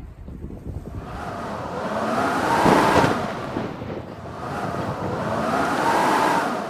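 Strong blizzard wind gusting in two big swells, each rising and falling with a howling pitch, one about three seconds in and another near the end.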